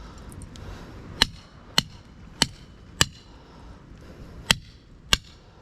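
Hammer striking metal on an electric motor being broken down for its copper windings: six sharp, ringing blows about half a second apart, with a longer pause between the third-last and second-last.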